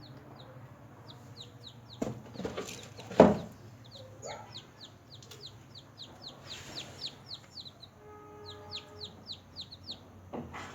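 Newly hatched chicks peeping: runs of short, high peeps, each falling in pitch, several a second. Two loud knocks come about two and three seconds in, the second the loudest sound.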